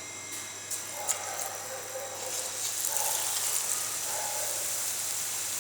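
Pakora batter going into hot oil in a kadhai: a few small clicks, then the oil starts sizzling, growing louder from about two seconds in.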